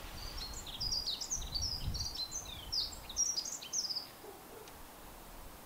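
A small songbird singing a fast run of short, high chirping notes that stops about four seconds in, over a low rumble.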